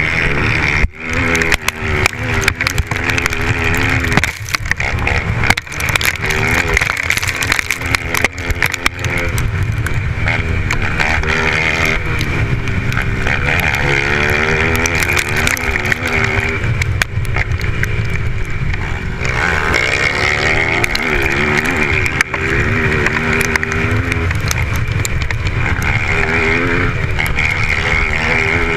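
Dirt bike engines revving, their pitch rising and falling over and over as the bikes race, loud throughout.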